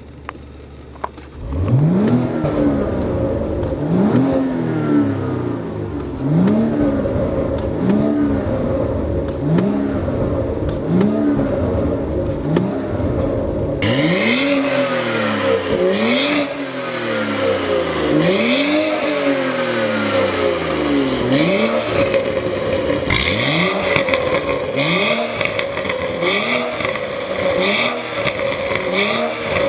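BMW M135i's turbocharged 3.0-litre straight-six, fitted with an Armytrix valved exhaust, idles briefly and is then revved over and over, each rev rising and falling roughly every second and a half. From about halfway the exhaust note turns harsher.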